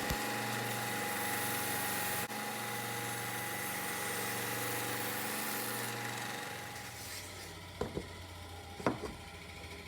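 Belt sander's electric motor running with a steady hum, then winding down and fading out about six to seven seconds in. Two light knocks follow near the end.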